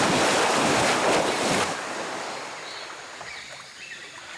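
Heavy splashing and rushing water for almost two seconds, then fading to a low, steady wash.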